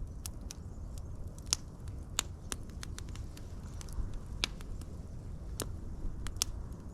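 Wood fire crackling: irregular sharp pops and snaps of burning wood over a steady low rumble of flame.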